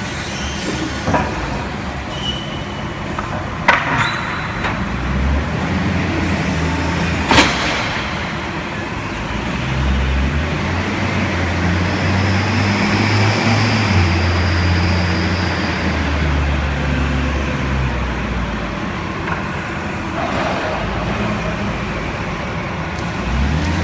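Forklift engine running and changing pitch as it works, with two sharp knocks, one about 4 seconds in and a louder one about 7 seconds in.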